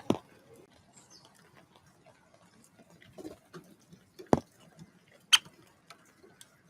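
Irregular sharp taps and knocks at a bird feeder: three louder knocks, at the start, past the middle and a second later, with scattered faint ticks between.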